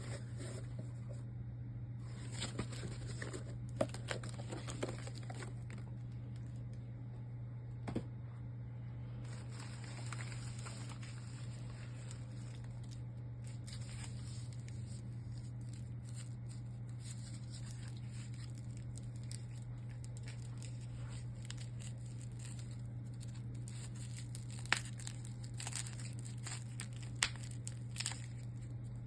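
Packaging being handled and opened: crinkling and tearing of wrapping with scattered clicks and a few sharper knocks, over a steady low hum.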